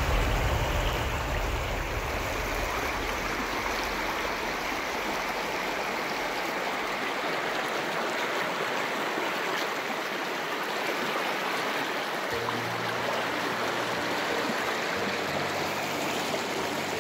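Water of a stream rushing steadily, a dense, even noise.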